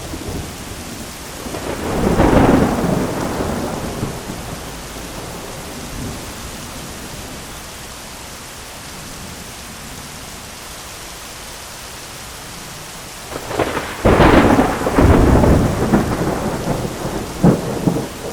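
Heavy rain pattering steadily on an umbrella, with two rolls of thunder. One rumbles about two seconds in and fades. A louder, crackling peal breaks out near the end and rolls on.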